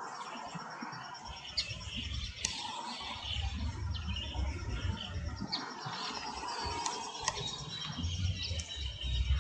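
Birds chirping with short, sharp high calls scattered through, over a steady, fast-pulsing high trill like an insect's and a low, uneven rumble.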